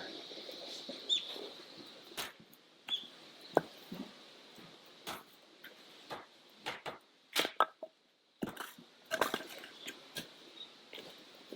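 Firewood being split: irregular sharp knocks and cracks of a blade striking and splitting wood, about five louder strikes among smaller ones.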